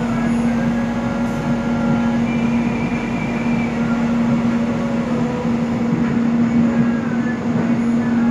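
Soekarno-Hatta airport rail link electric train running: a steady rumble with a constant low hum and faint thin whines above it.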